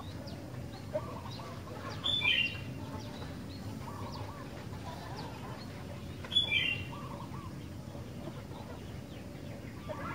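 Sooty-headed bulbul (kutilang) singing: two loud, short phrases of quick falling notes about four seconds apart, with softer warbling notes between them.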